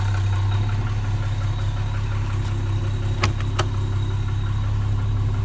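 1960 Jaguar Mark IX's 3.8-litre straight-six idling steadily just after a cold start, the engine still cold. Two sharp clicks come a little past three seconds in.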